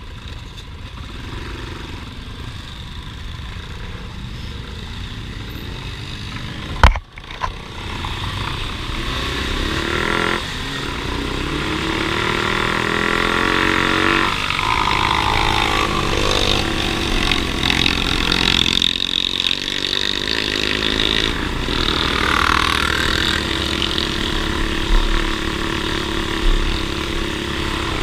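Off-road vehicle engines running and revving, their pitch rising and falling and growing louder from about eight seconds in. A single sharp thump comes about seven seconds in.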